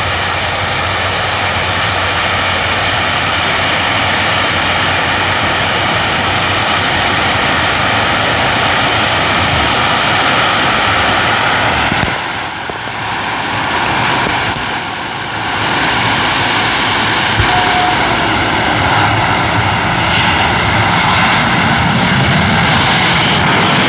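Twin jet engines of a jet-powered fire truck running with a steady rush and a high whine. They ease off briefly about halfway through, then come back up, a little louder near the end.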